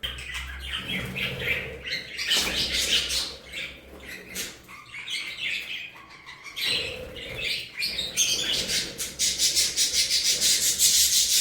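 Budgerigars chirping and chattering in short, quick calls. From about two-thirds of the way in, a fast, even scratching rasp takes over as the loudest sound.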